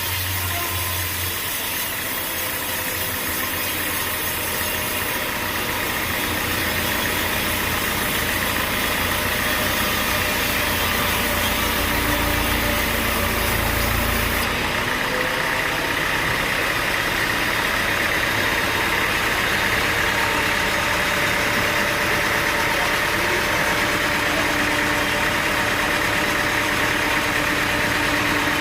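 Sawmill engine running steadily between cuts, with a steady whirr and faint tones. A deep rumble drops away about halfway through.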